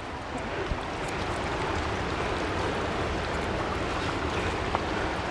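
Creek water rushing steadily over rocks, getting a little louder over the first couple of seconds.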